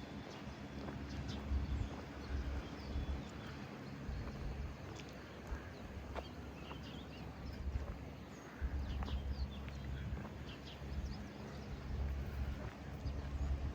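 City street ambience: scattered footsteps and small clicks over a low engine hum from traffic, which fades about two and a half seconds in and returns just past the middle.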